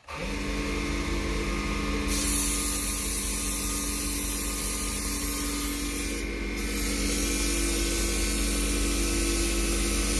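Small electric power sander switching on and running steadily, its sandpaper pad sanding padauk wood at fine grit (400): a steady motor hum under a rushing hiss of paper on wood, the hiss easing briefly about six seconds in.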